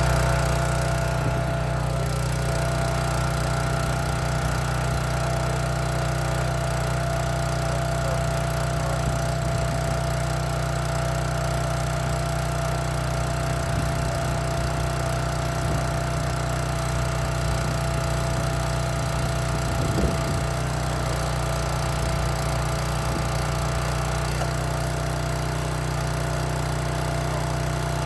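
Small engine, just started, settling from higher revs in the first couple of seconds to a steady, even run, with a single brief knock about twenty seconds in.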